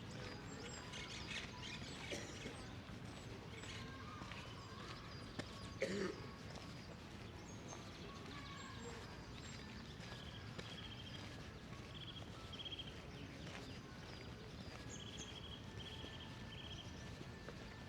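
Outdoor park ambience with a steady low hum of background noise. Small birds chirp in short calls, repeated in groups of two or three through the second half. There are faint footsteps, and one brief louder sound about six seconds in.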